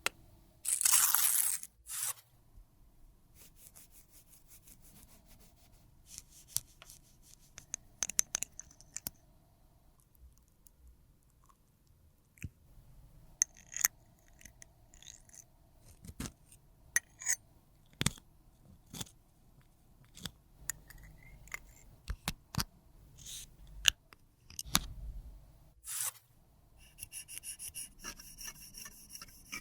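Makeup being worked by hand with small tools. A loud, brief hiss comes about a second in, then scattered clicks, taps and light scrapes, and near the end a quick, rhythmic scraping.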